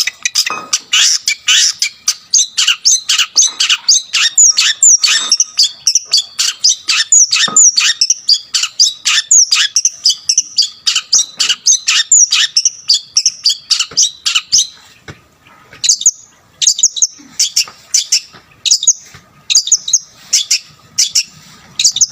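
Long-tailed shrike (cendet) in full, loud song: a rapid run of sharp, downward-sweeping calls, about three a second, laced with mimicked phrases. About two-thirds of the way through it thins into shorter, spaced phrases.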